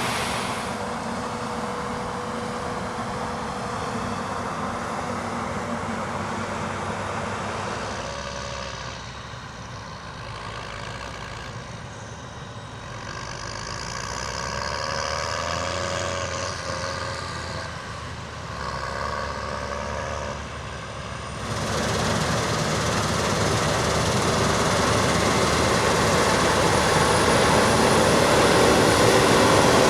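Diesel engines of heavy harvest machinery, combine harvesters and tractors, running under load. The sound changes abruptly about eight seconds in and again about two-thirds through, then grows steadily louder toward the end as a machine comes closer.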